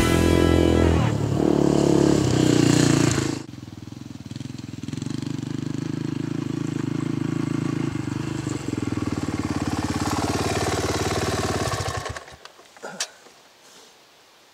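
Background music for the first three seconds or so, then a dirt bike's engine running steadily. The engine cuts off suddenly about twelve seconds in, followed by a single click.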